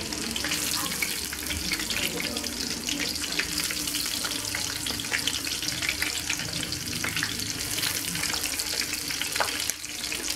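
Cornflake-breaded turkey nuggets shallow-frying in hot oil in a frying pan: a steady sizzle full of fine crackles as the coating cooks.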